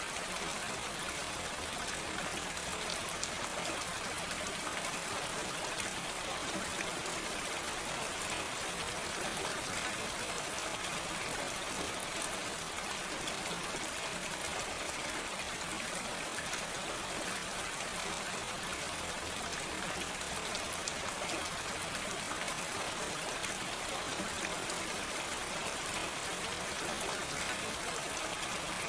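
Steady gentle rain: an even hiss of falling rain with fine drop patter, no thunder.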